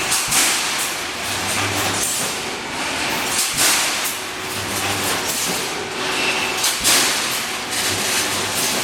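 Pneumatic resistance wire mesh welding machine running, with repeated air hisses and metal clacks from its welding heads. A low electrical hum comes and goes in short spells about every three seconds.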